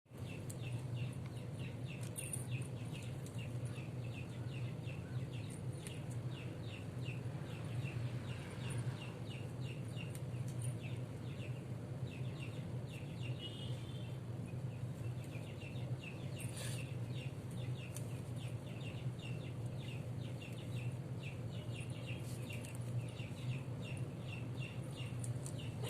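Rabbits chewing carrot: rapid, irregular crunching clicks, a few louder snaps among them, over a steady low hum.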